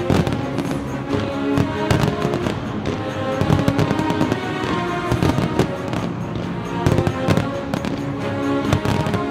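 Aerial fireworks shells bursting again and again at irregular intervals, heard together with loud music playing throughout.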